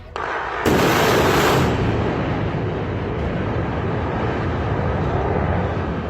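Explosive charges going off in a stadium's controlled demolition: a sudden loud blast a little under a second in, followed by a long, slowly fading rumble.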